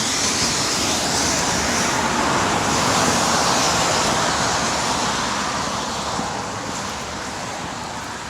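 Heavy rain pouring down, a steady loud hiss that swells about three seconds in and eases off toward the end.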